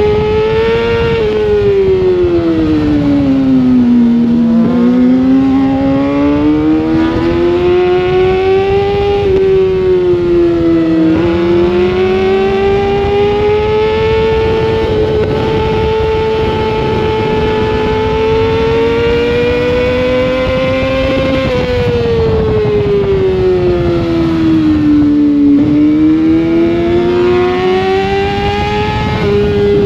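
Sportbike engine heard onboard at racing speed, revving high and rising in pitch under throttle, with a brief break near the 11-second mark like a gear change, and falling in pitch twice as the throttle is closed for corners, over a steady rush of wind.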